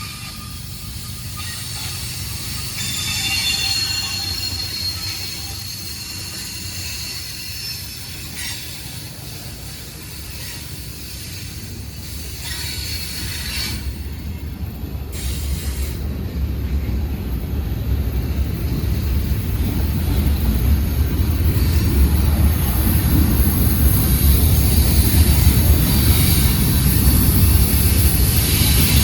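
Mixed freight train rolling past: high steady wheel squeal over the first several seconds, then a low rumble of the cars on the rails that grows louder toward the end.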